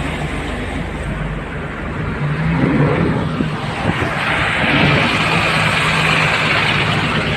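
Motor vehicle engine running with a steady hum, under a rough wash of noise that grows louder about four seconds in.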